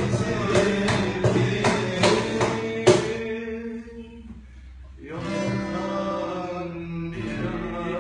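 Acoustic ensemble of oud, acoustic guitar, cajon and darbuka playing a Turkish song. Hand-drum hits over ringing plucked strings stop about three seconds in, the music drops to a quiet lull, and the plucked strings come back in about five seconds in.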